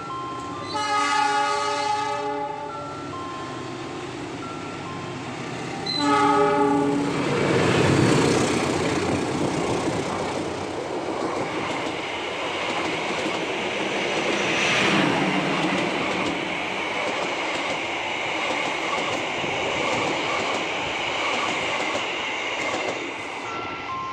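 Two blasts of a diesel locomotive horn, a couple of seconds and then about a second long. A passenger train then passes close by: a loud, steady rush of wheels and coaches with rail-joint clacking for about fifteen seconds, easing off near the end.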